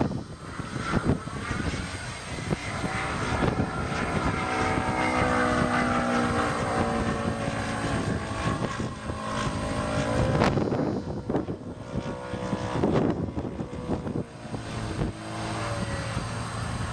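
Radio-controlled model airplane flying, its motor and propeller making a steady tone that rises and falls in pitch as the plane passes and turns.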